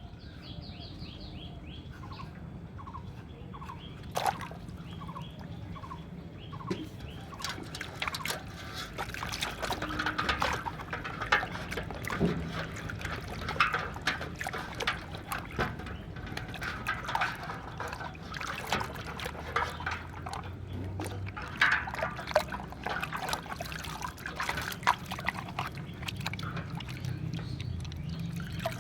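Water splashing, trickling and dripping in irregular bursts as muddy toy vehicles are washed by hand in water, over a steady low hum, with a few short chirps in the first few seconds.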